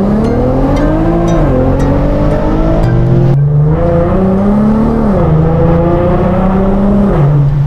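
Infiniti G37's naturally aspirated VQ37VHR 3.7-litre V6 accelerating hard through the gears. Its pitch climbs and drops back at each of several upshifts.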